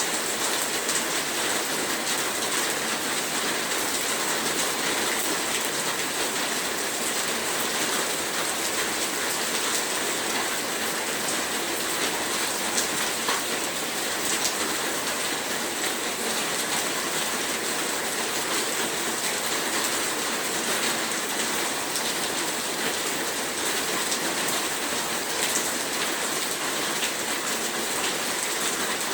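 Heavy rain falling steadily, a dense hiss with many small drop ticks.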